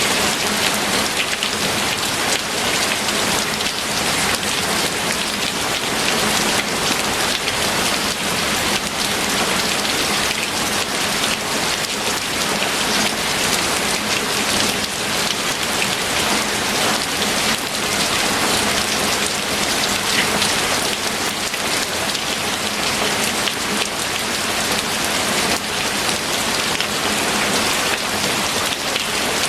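Steady heavy rain falling, with many fine drop patters and an even hiss.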